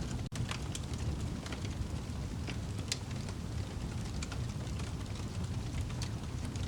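Wood fire burning in a fireplace: a steady low rumble with irregular sharp crackles and pops of burning wood, several a second. The sound drops out for an instant about a third of a second in.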